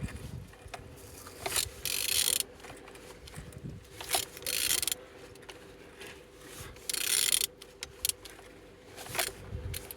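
Opel Z18XER 1.8-litre four-cylinder engine being turned over by hand: several short mechanical clicking and rasping bursts, a second or two apart, as the crankshaft is rotated. The engine turns freely and is not seized.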